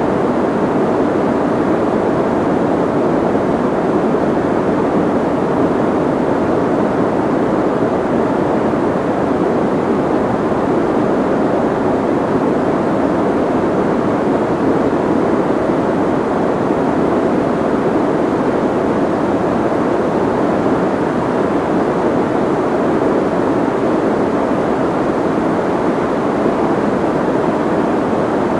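Soft white noise: a steady, unchanging hiss with its weight in the low and middle range and little high treble, so it sounds more like a muffled rush than a sharp hiss.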